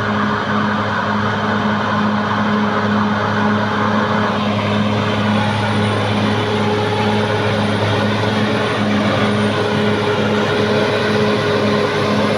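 Caterpillar D6R XL bulldozer's diesel engine running steadily, with a low drone that pulses regularly.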